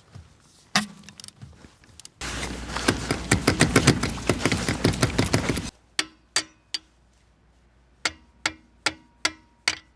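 A loosened wheel nut being wound off with a ratcheting wrench: a fast run of ratchet clicks for about three seconds, then slower single clicks with a short metallic ring.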